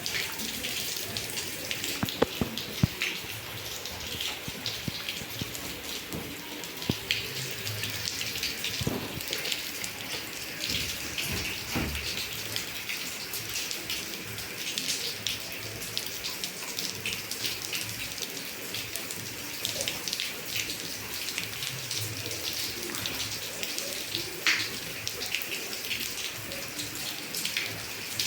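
Steady rain falling, with many sharp drops splashing and dripping close by.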